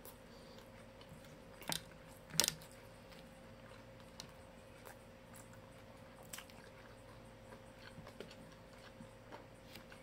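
Close-up eating sounds: chewing and crunching on fried meat and rice eaten by hand, with scattered small clicks and two louder crunches about two seconds in.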